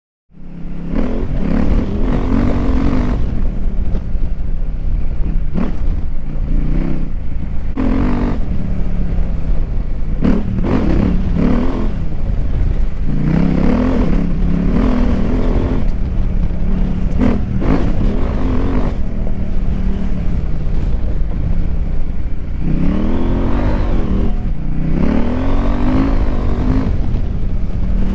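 KTM 890 Adventure R's parallel-twin engine breathing through a Wings aftermarket exhaust while the bike is ridden. The engine cuts in just after the start, and the revs rise and fall again and again as the rider accelerates and rolls off, with two long pulls near the end.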